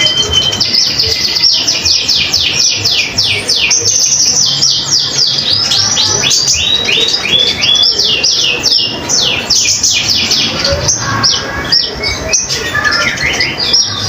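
Van Hasselt's sunbird (kolibri ninja) singing a long, fast run of sharp, high chirping notes, several a second, each note sliding downward.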